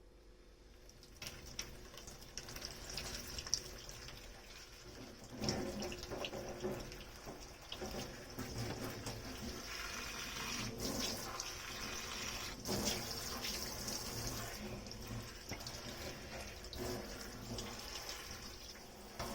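Kitchen tap water running into a sink as dishes are washed, with occasional clinks of dishware. The water picks up and grows steadier about five seconds in.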